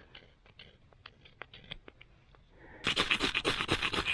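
A knife blade scraping. First come quiet, scattered scratches, then about three seconds in a loud, rapid run of scrapes that lasts about a second.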